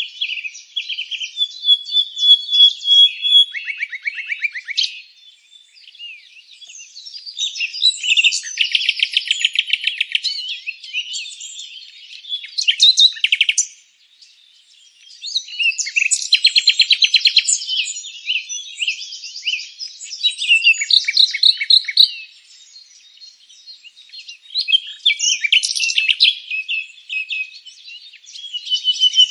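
Songbirds chirping and singing: clear high notes and rapid trills in bouts a few seconds long, with brief lulls between bouts.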